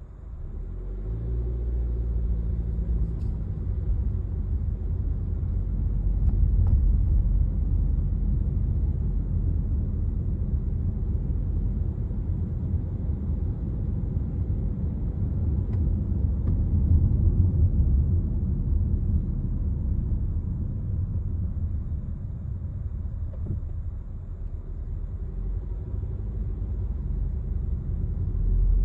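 Honda CR-V's 1.5-litre L15 turbo four-cylinder engine running with a steady low rumble, swelling over the first couple of seconds. No valve ticking stands out: a little engine coarseness but no tick.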